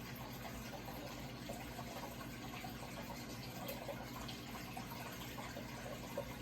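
Running water trickling and splashing steadily, with a low steady hum underneath.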